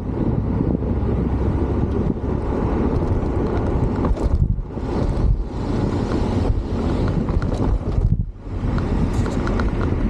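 Wind rushing and buffeting on the microphone over a steady low rumble, easing off briefly twice partway through.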